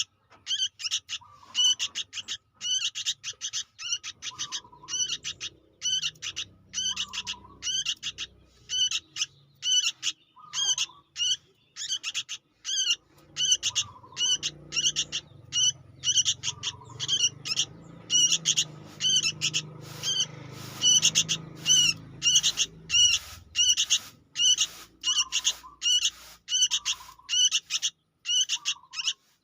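Young sooty-headed bulbul (kutilang) giving begging calls: short, sharp, high chirps repeated about two to three times a second without a break. A faint low hum sits under the calls in the middle of the stretch.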